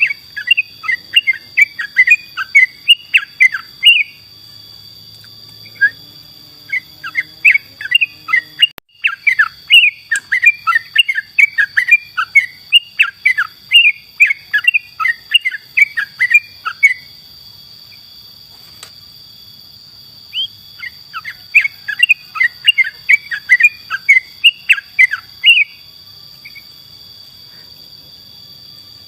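Yellow-vented bulbul (trucukan) singing three long bursts of fast, bubbly chirping notes with short pauses between them, over a steady high-pitched whine.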